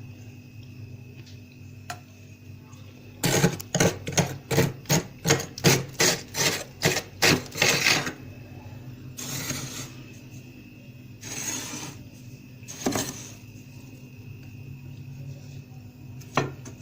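Plastic card scraping fluffy frost off a freezer's walls: after a few quiet seconds, a quick run of about a dozen short scrapes, roughly three a second, then a few slower single scrapes. A low steady hum runs underneath.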